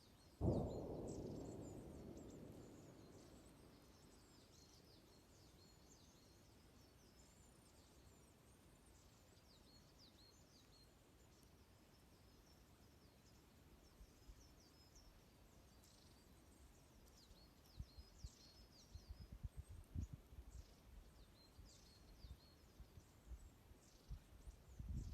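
Small songbirds chirping faintly and often. About half a second in, a sudden rush of noise fades away over a few seconds, and from about two-thirds of the way through, low pops and crackles of the campfire come more and more often.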